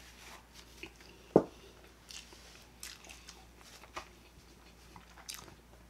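Chewing a mouthful of food close to the microphone: quiet, scattered wet mouth clicks, the sharpest about one and a half seconds in.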